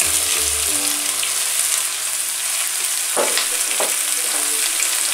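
Pieces of red and yellow horn pepper sizzling in hot olive oil and browned onion in a pot, just after being tipped in, with a steady frying hiss.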